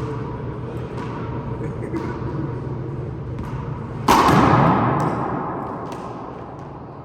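Handball play: sharp slaps of the ball against hands and wall about once a second. About four seconds in comes a loud crash that rings on and fades away over the next two seconds.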